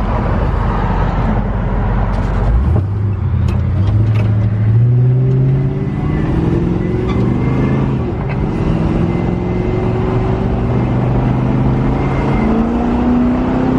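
Truck engine pulling under acceleration, its pitch climbing steadily and dropping back at gear changes, about halfway through and again near the end.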